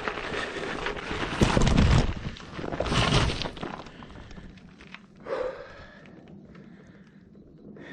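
Ride noise from a pedal-assist e-bike on a dirt and gravel fire road: tyres crunching and rumbling over the loose surface, with two louder surges about one and a half and three seconds in, then quieter rolling.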